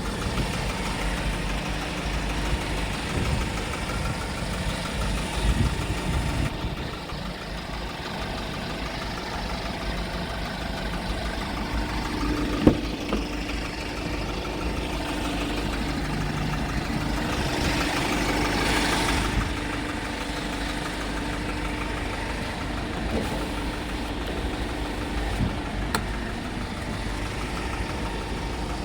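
Kia Bongo 3 truck's diesel engine idling steadily, with one sharp click about twelve seconds in and a brief swell of hiss a few seconds later.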